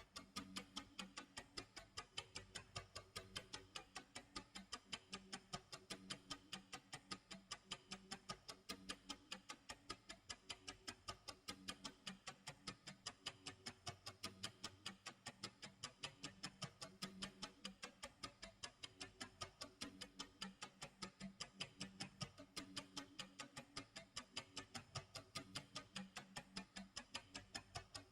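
Faint clock tick-tock sound effect, rapid and evenly spaced at several ticks a second, with faint low tones underneath.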